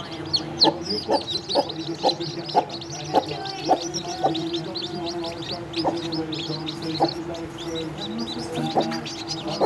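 Newly hatched chicks peeping: many short, high peeps in a near-continuous chorus. A hen clucks low about once a second.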